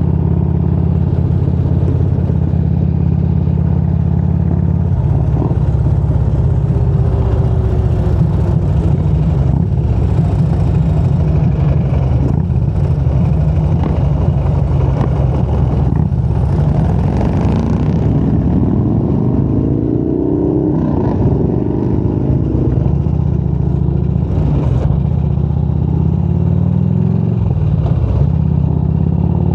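Motorcycle engine running at riding speed, loud and steady, with its pitch rising in sweeps about twenty seconds in and again near the end.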